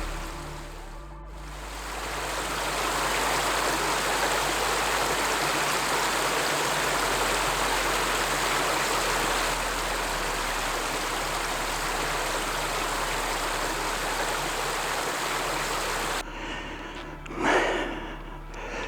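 Creek water flowing as a steady rush, which cuts off abruptly near the end.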